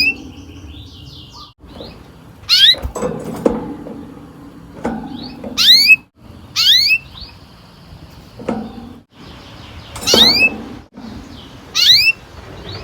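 Domestic canary calling: about five loud, quick upward-sweeping whistled call notes, one every second or two, with quieter short trills held between them.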